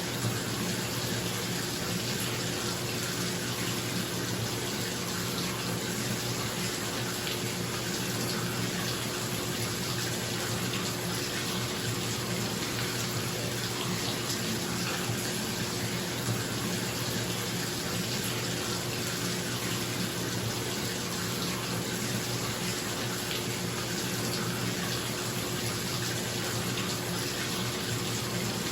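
Bathtub filling from the tap: a steady rush of running water, with a bathroom exhaust fan humming underneath.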